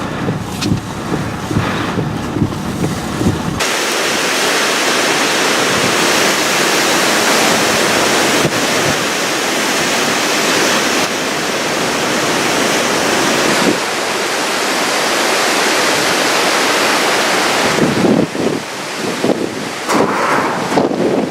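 Hurricane-force wind with driving rain: a loud, steady rushing hiss. Low rumbling wind buffets the microphone at the start and again near the end, and the sound changes abruptly about three and a half seconds in.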